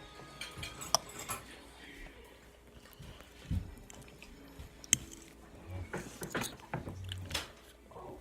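Close-miked eating sounds: scattered bites, chewing and mouth clicks, with sharp clicks about a second in and again around five seconds.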